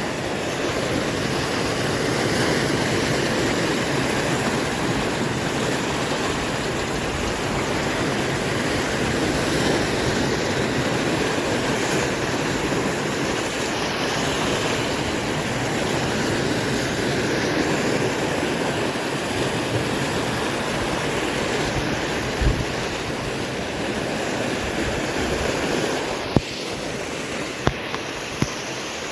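Heavy swell surf breaking and washing in, a steady loud rushing with wind buffeting the microphone; a few sharp clicks near the end.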